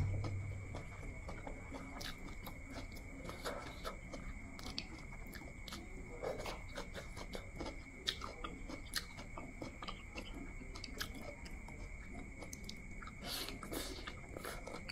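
Close-up chewing of steamed shrimp and glass noodles: soft, wet mouth sounds with many small irregular clicks, over a faint steady high whine.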